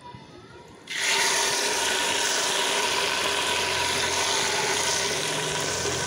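Marinated country chicken hitting hot oil in a clay pot and sizzling. The loud, steady sizzle starts suddenly about a second in.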